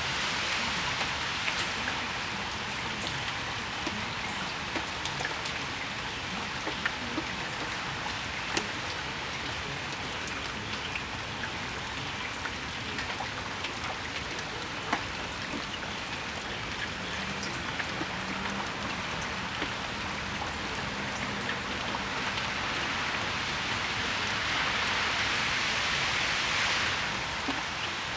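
Steady rain falling, with single drops ticking sharply close by. A broader hiss swells for a few seconds near the end.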